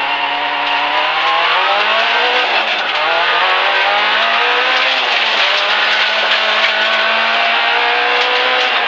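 Suzuki Swift 1300 rally car's 1.3-litre four-cylinder engine under full acceleration from a standing start, heard from inside the cabin. The engine note climbs in pitch, dips at each upshift about two, three and five and a half seconds in, then holds a steady note for the last few seconds.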